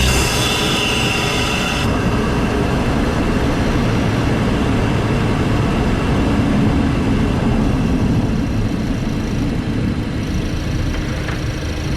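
A Volkswagen Golf GTI Mk7's turbocharged 2.0-litre four-cylinder, fitted with a CTS cold air intake, heard from the engine bay while driving. A bright hissing, whining layer of intake and turbo noise cuts off about two seconds in, leaving a steady engine and road drone.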